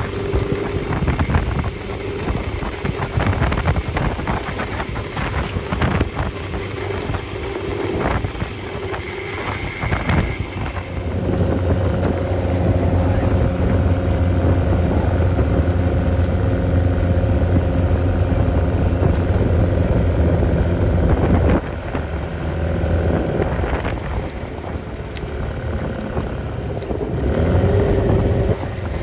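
Supercharged MG TA race car's engine running on the road, with wind buffeting the open cockpit. The engine pulls steadily and louder from about a third of the way in, drops off abruptly about two-thirds of the way through, then builds again near the end.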